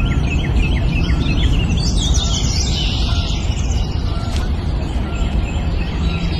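Several songbirds chirping in short repeated notes, with a busy flurry of rapid high trills about two seconds in, over a steady low rumble.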